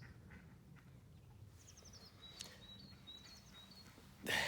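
Faint outdoor ambience with a small bird calling high and thin. It gives a quick run of chirps twice, each run ending on a short held note, over a low steady rumble.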